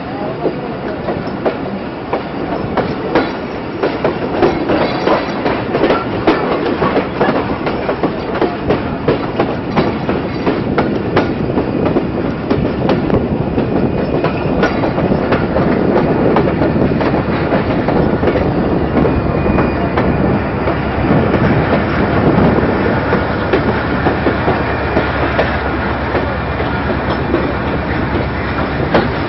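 Passenger train running, its wheels clattering over the rail joints in a fast, continuous run of clicks over a steady rumble.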